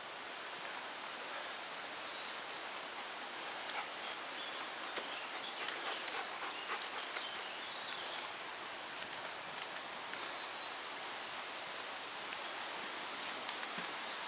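Steady outdoor hiss of stormy weather, with a few faint, short, high bird chirps and light clicks.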